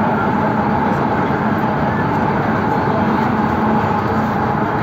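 MTR East Rail Line train running at speed through a tunnel, heard from inside the carriage: a steady rumble of wheels on rail, with a steady hum and a higher whine from the drive.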